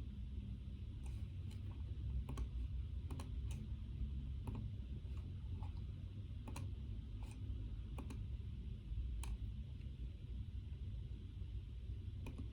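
Slow, irregular clicks of computer keys, about fifteen in all, over a steady low rumble.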